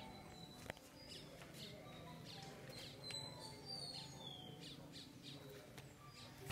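Faint bird chirps, many short high calls with a few short falling whistles a few seconds in, and one light click about a second in.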